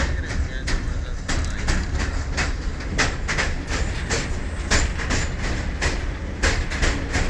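Moving train: a steady heavy rumble with the clickety-clack of wheels over rail joints, about two to three clacks a second.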